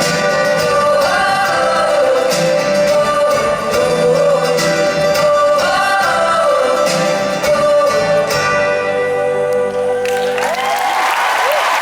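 Wordless vocal harmonies held and gently swooping over guitar, ending a live song. About ten seconds in the music stops and the audience breaks into applause and cheering.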